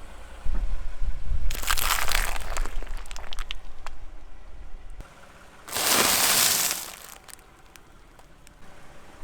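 A car tyre rolling over and crushing objects: a low rumble with a dense run of crunching and crackling about one and a half to three seconds in, then a second short loud burst of crushing noise about six seconds in.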